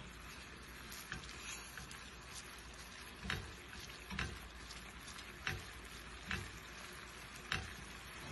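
Thick ginger chutney sizzling in a stainless steel pan over high heat, with a silicone-tipped spatula scraping and knocking against the pan about once a second as it is stirred.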